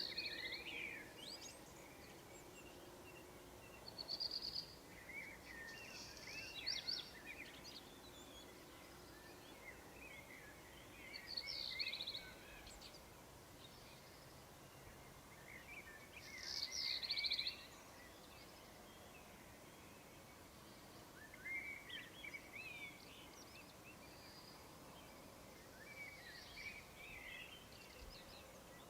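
Songbirds singing short chirping, warbling phrases about every five seconds over a faint steady background hiss.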